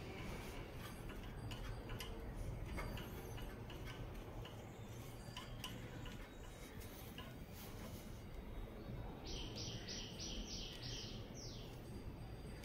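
A bird calls a quick run of about seven short, high chirps, each sliding down in pitch, about nine seconds in, over a low steady background with scattered faint clicks.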